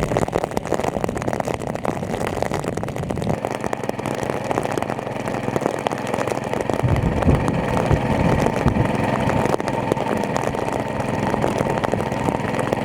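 Engine-driven water pump running steadily, with a dense crackling patter over it and a few heavier low thumps about seven to nine seconds in.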